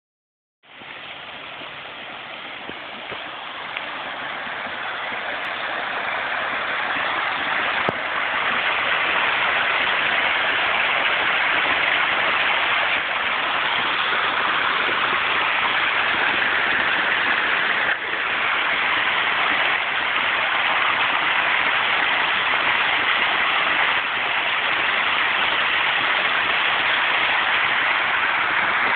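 Heavy rain falling on a pond's water surface, a steady dense hiss that grows louder over the first several seconds and then holds steady.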